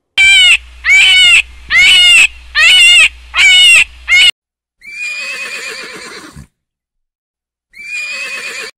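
Five short, loud, high-pitched animal calls in quick succession, then a horse whinnying: a longer whinny that falls away in a quavering trill, and a shorter whinny near the end.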